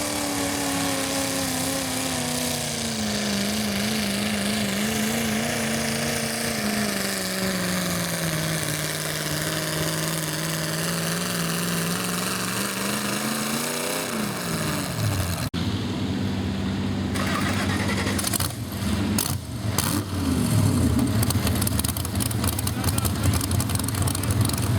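Garden tractor engine running hard under load in a tractor pull, its pitch sagging steadily as the load bogs it down, picking up briefly and then dropping away about fourteen seconds in. After an abrupt change, a lower engine note runs steadily with some clatter.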